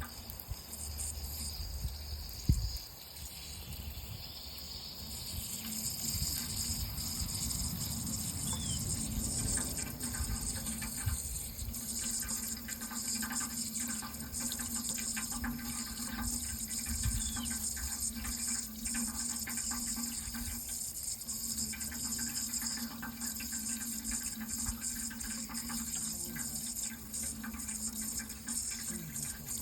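Water running steadily in a continuous rush, which grows louder and brighter about five seconds in. There is a single sharp thump about two and a half seconds in.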